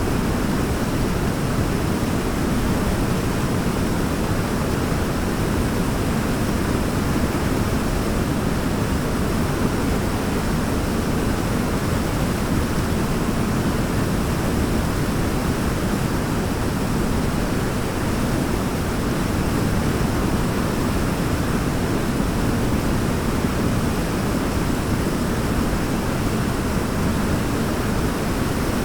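Waterfall rushing, a steady, unbroken wash of falling water, heaviest in the low range.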